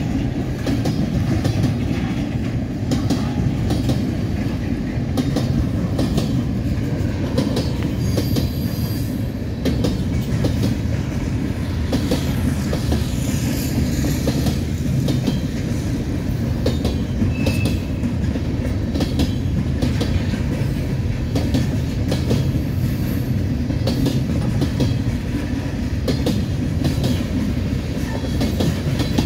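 A freight train's cars rolling past: intermodal spine cars, then centerbeam lumber flatcars, then tank cars. Their steel wheels make a steady deep rumble on the rails, with constant clicking and clacking over the rail joints and a few faint, short wheel squeals.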